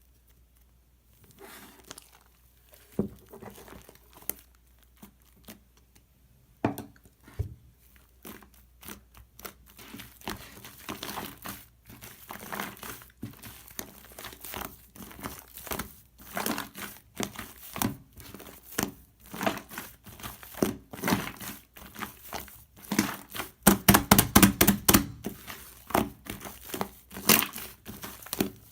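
Fluffy shaving-foam slime being worked by hand, giving crackling and little popping clicks. Sparse at first, denser as it goes on, with the loudest run of crackling a few seconds before the end.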